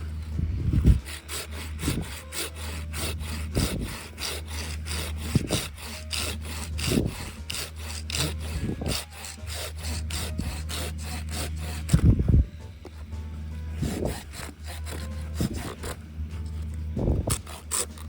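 Wood being sawn by hand in quick, even back-and-forth strokes, with a break about twelve seconds in. A few heavier knocks come in between the strokes.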